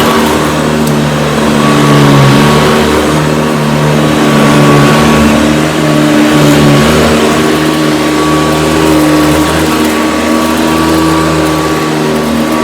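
Hoover Decade 80 upright vacuum cleaner running, its motor and fan giving a loud steady hum over a rush of air, the pitch dipping slightly now and then.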